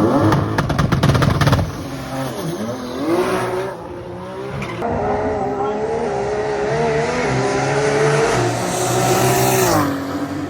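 Stripped-down drag car launching hard at full throttle with a rapid crackle in the first second or so, its engine pitch climbing and dropping back through several gear changes down the strip, then falling away near the end as it comes off the throttle.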